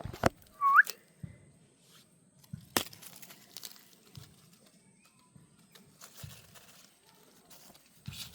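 A single short animal call rising in pitch about a second in, among a few sharp clicks and knocks with faint rustling.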